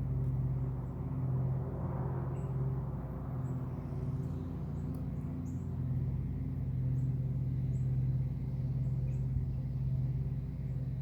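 Steady low mechanical hum, like an engine or generator running, with a few faint high bird chirps over it.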